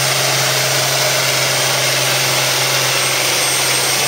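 International Harvester farm stock pulling tractor's diesel engine running hard under load as it drags the weight sled down the track, a loud, steady, unbroken engine noise.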